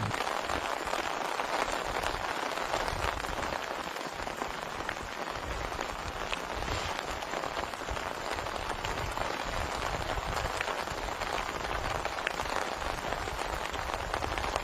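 Heavy rain falling steadily, with many individual drops tapping close by.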